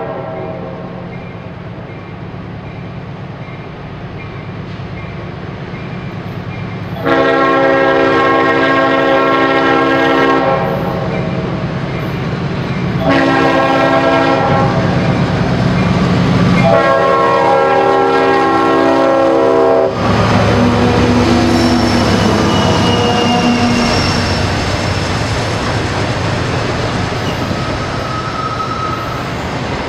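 CSX diesel freight locomotives approaching on the horn: the engines' low rumble grows, then the horn sounds one long blast and, after a pause, a run of blasts broken by brief gaps. The locomotives then pass close, and the autorack cars roll by with wheel clatter and faint wheel squeal.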